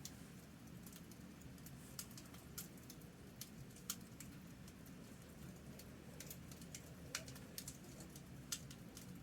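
Campfire crackling: irregular small snaps and pops at a low level, a few sharper ones standing out, over a faint steady low rumble.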